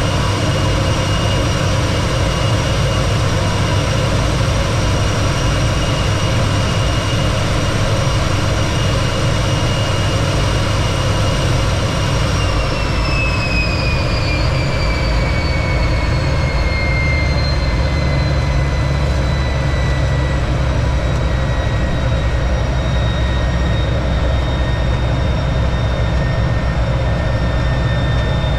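T-33 jet's turbojet engine running: a steady, loud roar with a high whine. About twelve seconds in, the whine glides down in pitch over several seconds and settles lower, a sign of the engine's speed dropping.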